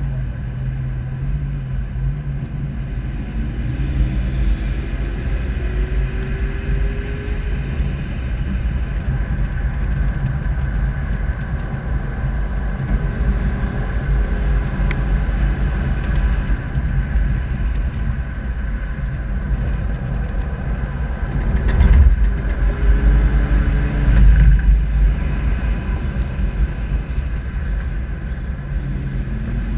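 Old SUV driven slowly, heard from a camera on its bumper: a steady engine and road rumble, with a slowly rising engine tone early on and louder moments about two-thirds of the way through.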